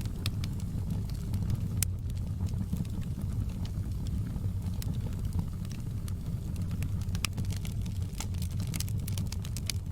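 Wood fire burning in a fireplace: a steady low rumble of the flames with irregular sharp crackles and pops from the logs, coming thicker near the end.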